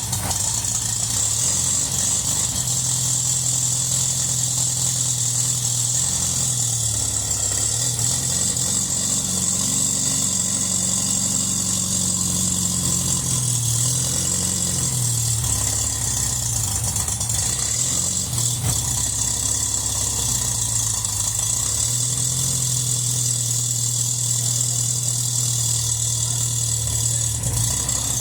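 Freshly rebuilt car engine running on its first start after sitting three years, idling steadily. Its revs rise and fall a few times in the middle as it is given gas, then it settles back to a steady idle.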